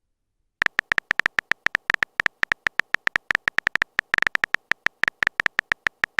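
Rapid run of phone-keyboard tap clicks, the typing sound effect of a texting story, starting about half a second in and tapping several times a second, densest around four seconds in.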